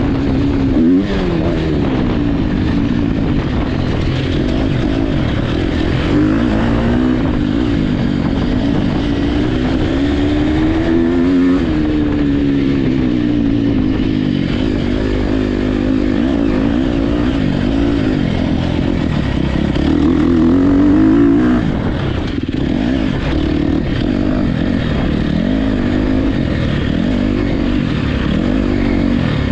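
Motocross dirt bike engines racing at full throttle, the engine note rising and falling in pitch over and over as the riders open and close the throttle.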